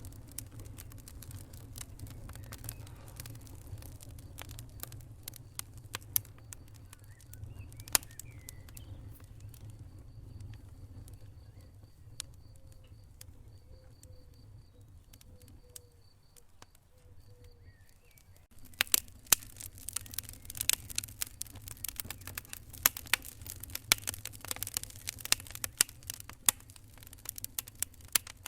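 Wood fire burning in a fireplace: a low rumble under scattered crackles and pops, which thicken into dense crackling about two-thirds of the way through.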